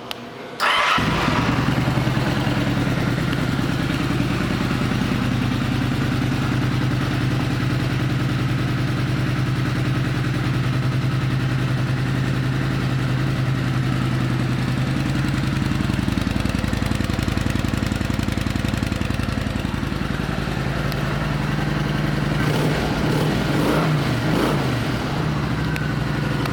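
Kawasaki Vulcan 900 Classic's V-twin engine starting about a second in, then idling steadily. Near the end the revs rise and fall a few times.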